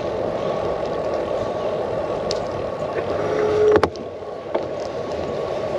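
Steady wind buffeting a handlebar-mounted GoPro's microphone while cycling, mixed with the bicycle's rolling noise. A short held note a little after three seconds, then a sharp click just before four seconds.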